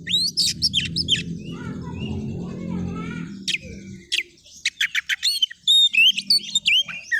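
Oriental magpie-robin (kacer) in full song: a rapid run of varied sweeping whistles and sharp chirps, loudest and densest in the last few seconds. A low background murmur sits under the first half and fades out about four seconds in.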